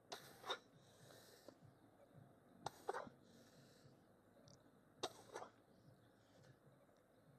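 A person's sharp, forceful breaths out, three times about two and a half seconds apart, each followed by a softer breath in: effort breathing in rhythm with lifting reps.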